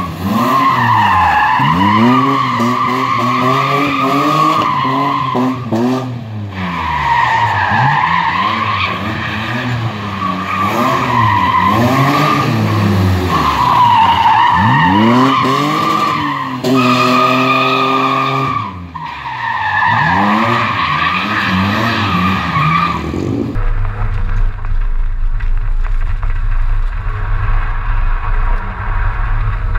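BMW M30B35 3.5-litre straight-six in an E30 coupé race car, revving up and falling back again and again as it is driven hard through the gears. About 23 seconds in, the sound changes abruptly to a low steady drone.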